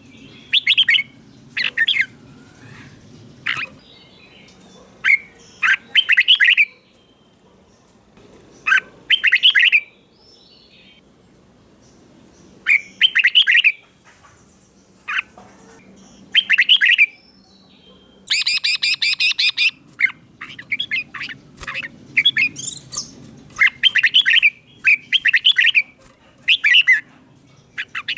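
Red-whiskered bulbul singing short, loud, warbling phrases, one every one to three seconds, with a longer rapid chattering run about two-thirds of the way through.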